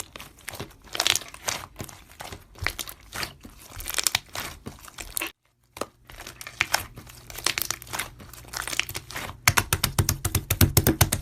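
Close-up crinkling and clicking handling noise, with a brief cut to silence midway and a fast run of sharp clicks near the end.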